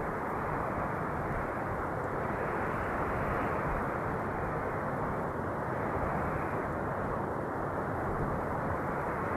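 Steady rushing wind noise, heavy in the low and middle range, swelling and easing slightly every few seconds.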